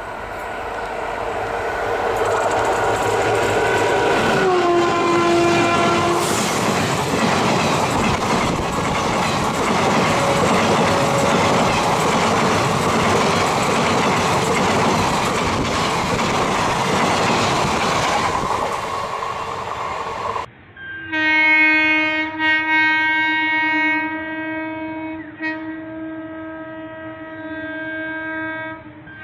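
WAP-4 electric locomotive's horn blaring as it comes through at speed, the pitch dropping sharply as it passes, then the loud rush and clickety-clack of its coaches going by. After a sudden cut, another locomotive's horn sounds in a long, steady blast with a brief break midway.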